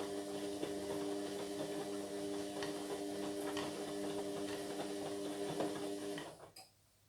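Indesit MyTime washing machine running with a steady hum and light clicking, which cuts out about six seconds in, followed by a single click.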